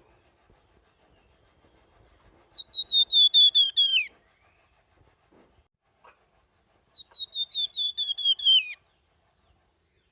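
A flamboyan bird singing its flute-like whistled song, the 'nyuling' style: two phrases, each a quick run of about a dozen short clear notes at one high pitch that drop lower at the end.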